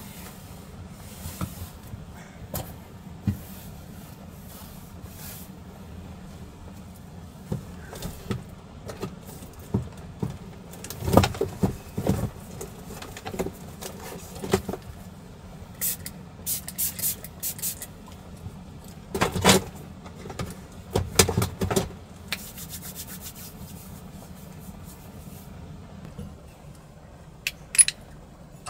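Objects being handled and shifted: scattered clicks, knocks and rustles, the busiest stretches about a third of the way in and about two-thirds in, over a steady low background noise.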